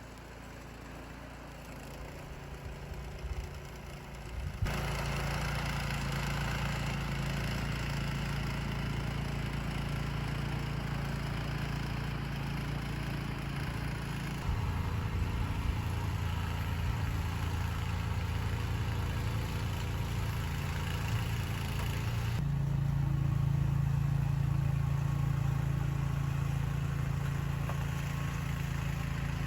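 An engine running steadily at idle, a low hum with a noisy wash above it. The sound changes abruptly about five seconds in and again at about twenty-two seconds.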